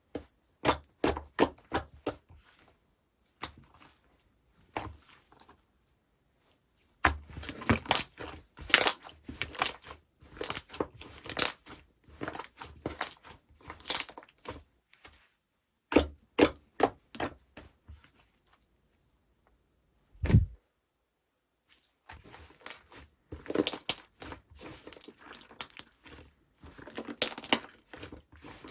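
Slime being squished and stretched by hand, giving quick runs of sticky clicks and pops with a few pauses between them. A single low thump comes about twenty seconds in.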